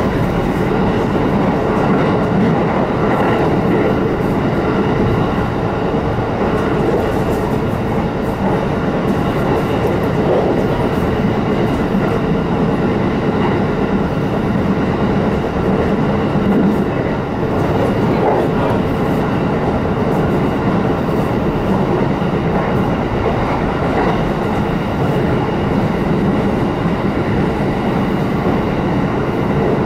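Shinano Railway electric train running at speed, heard from inside the passenger car: an even rumble of wheels on the rails with a faint steady hum.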